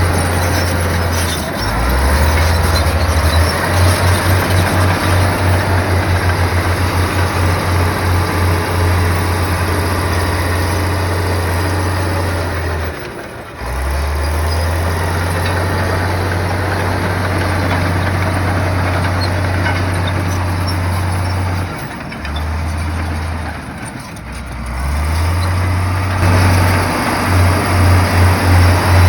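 Heavy bulldozer's diesel engine running under load, a deep steady rumble that pulses in places. It dips briefly twice, about halfway through and again a few seconds later, then comes back up.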